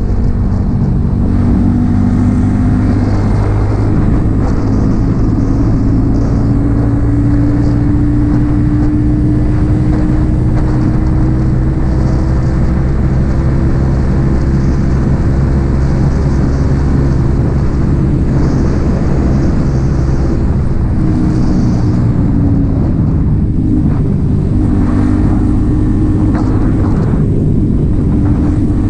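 Yamaha XSR 155's single-cylinder engine through an aftermarket M4 exhaust, running steadily while riding. The engine note climbs slowly, then drops and changes about two-thirds of the way through.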